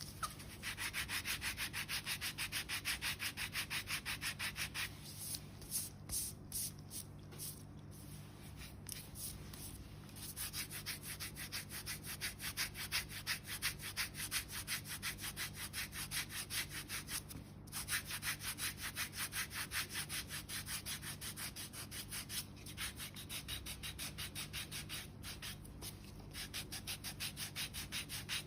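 Foot file rasping over thick, dead heel skin in rapid back-and-forth strokes, several a second, with a few seconds' lull about a fifth of the way in and a brief break past the middle.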